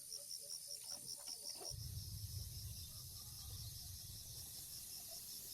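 Insects chirping in a fast, even pulse, about eight chirps a second, with a few soft clicks. The chirping cuts off abruptly under two seconds in and a low, steady rumble takes over.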